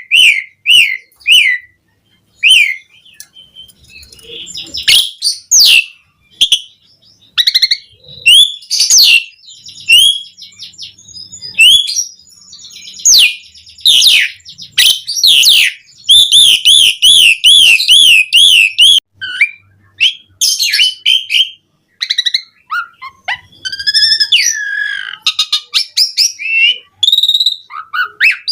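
Asian pied starling singing: a loud, varied run of whistles, clicks and chatter, with a fast, rolling repeated trill a little past the middle.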